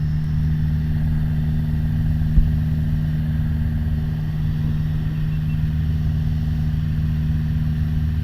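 Steady drone of a Piper Warrior's four-cylinder Lycoming engine and propeller heard inside the cabin in flight, with one brief knock about two and a half seconds in.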